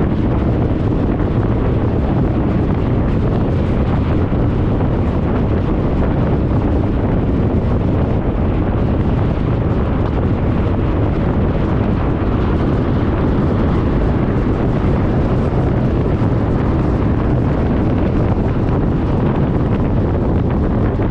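Steady wind noise buffeting the microphone of a camera mounted on a moving motor scooter, a constant low rumble with no breaks.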